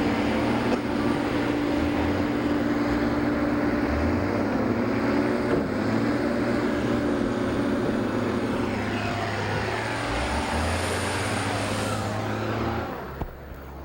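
Loud, steady motor-vehicle engine running, with a dense rushing noise over it and its low pitch shifting a few times; it drops away sharply near the end.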